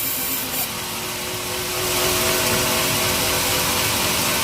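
Sawmill machinery running: a steady motor sound with a few held tones under a hiss, growing louder about two seconds in.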